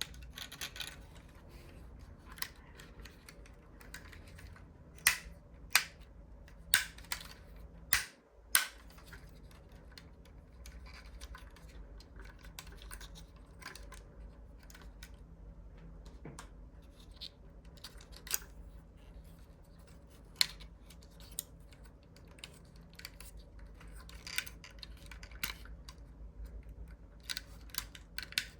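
Light, irregular clicks and taps of small diecast toy cars being handled, with a short run of sharper clicks about a third of the way in.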